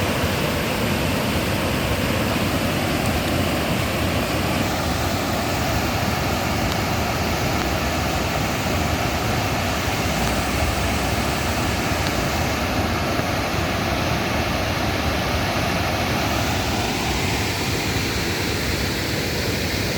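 Loud, steady rush of floodwater swollen by heavy rain.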